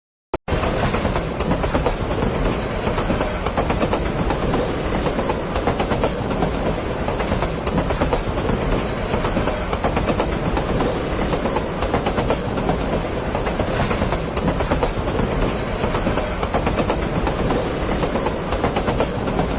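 JR Yamanote Line electric train running on the rails: a steady rumble of wheels on track with clickety-clack, starting abruptly about half a second in.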